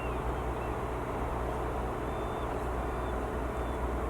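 A steady low drone of a distant engine, with a few faint short high chirps.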